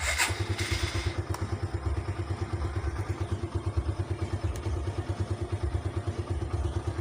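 Motorcycle engine starting on the electric starter, with a brief burst at the start, then settling into a steady idle with an even, pulsing beat. The battery read 11.5 volts just before the start.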